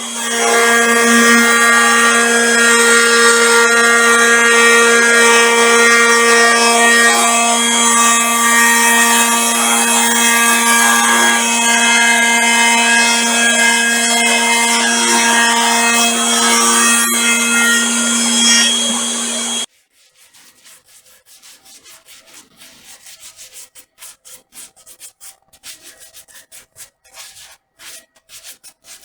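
A power tool runs at a steady high speed while working wood, holding one constant pitch, then stops abruptly about two-thirds of the way through. Faint, irregular scratching or rubbing strokes follow.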